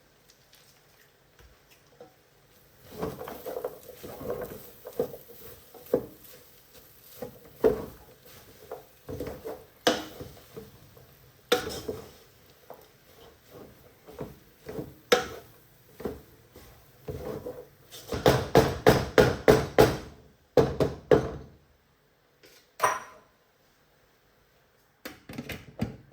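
Irregular knocks and clinks of household objects such as dishes and utensils being handled, with a quick, even run of about ten strokes a little past the middle.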